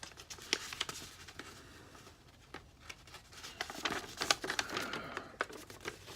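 Paper and cardboard handling: a folded paper instruction sheet and its box rustling and crinkling, with scattered light clicks and taps that grow busier in the second half.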